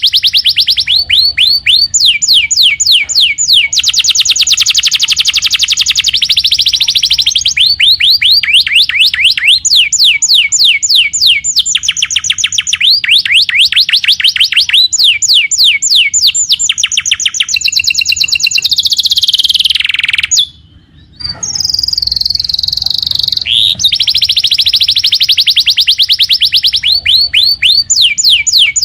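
Domestic canary in full song: fast trills and runs of rapidly repeated sweeping notes, phrase after phrase, with a brief break about two-thirds of the way through.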